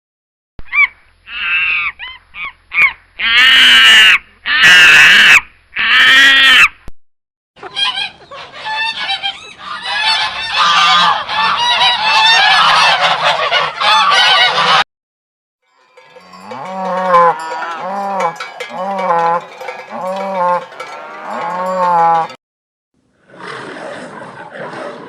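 Geese honking: a string of loud separate honks, then a flock calling over one another, then a run of about six evenly spaced honks. A short, rougher sound comes in near the end.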